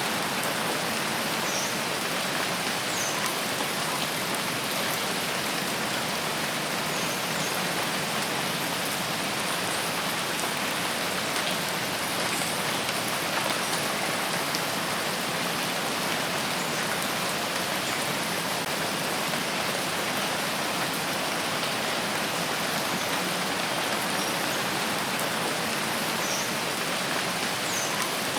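Steady rain falling on forest foliage, an even hiss with a few faint high chirps scattered through it.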